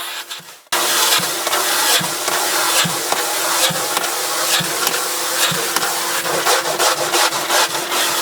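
Carpet-cleaning machine working over carpet with a steady motor drone and a rhythmic rubbing stroke about once a second. It cuts in suddenly a moment after a brief drop.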